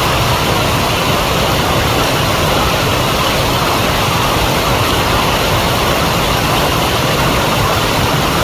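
A flowing river rushing steadily, a loud even noise of water with no breaks.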